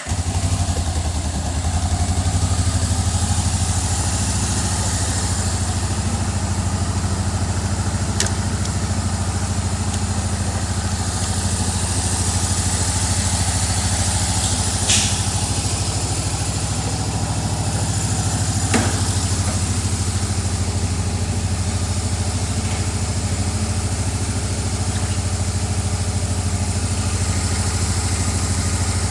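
Yamaha XVZ 1200 Venture Royale's liquid-cooled V4 engine idling steadily, with a few brief clicks now and then.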